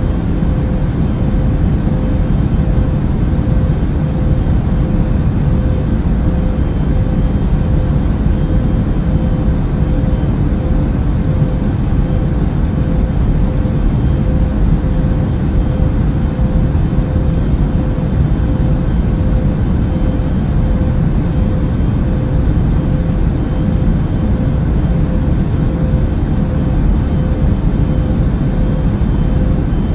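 Airbus A380 cabin noise in cruise flight: a steady, deep rush of engine and airflow noise, with a faint constant hum above it and no change throughout.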